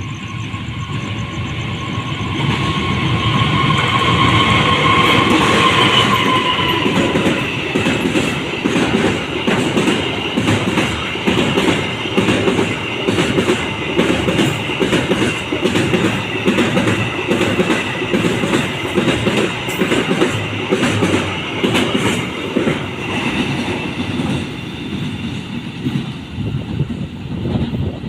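Container freight train passing. It is loudest about five seconds in, with a steady high whine that fades out around seven seconds, then the wagons roll by with a regular clickety-clack of wheels over rail joints.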